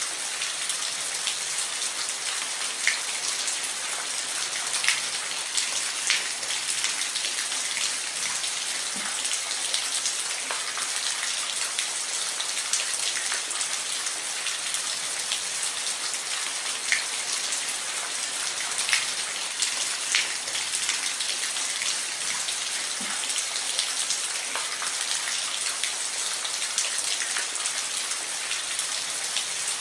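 Steady rain falling on a roof: an even hiss with scattered louder drops ticking on the surface.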